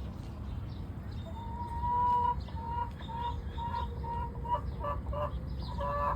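Chicken clucking: a drawn-out note about two seconds in, followed by a run of short repeated clucks.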